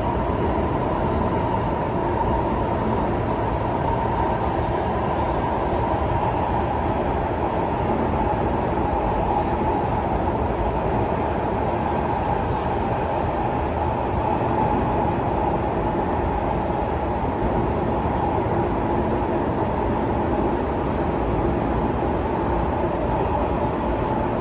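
Singapore MRT train running steadily at speed, heard from inside the passenger car: a constant rumble of wheels on rail with a steady whine from the drive.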